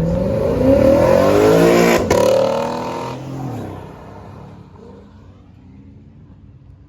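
A car accelerating hard past. Its engine note climbs for about two seconds, a sharp crack comes at the peak, and the note drops as the car goes by and fades away.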